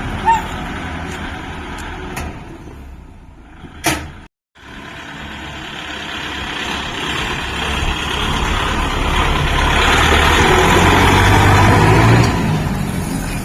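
Kubota MU5502 4WD tractor's diesel engine running, with a brief gap about four seconds in; it then grows steadily louder and eases off near the end.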